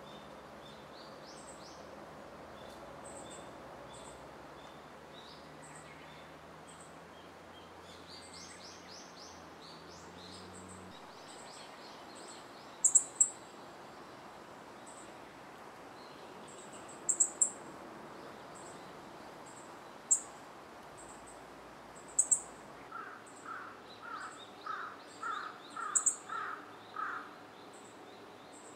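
Wild birds calling over a steady background hiss: faint high trills at first, then sharp high chirps, several in quick pairs, from about halfway on, and a run of about eight lower, evenly spaced notes near the end.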